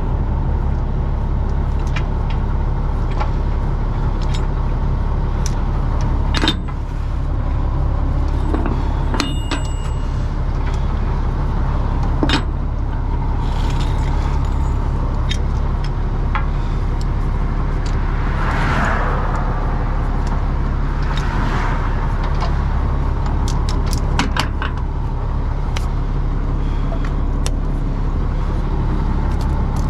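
A heavy engine running steadily, with scattered clicks and knocks over it.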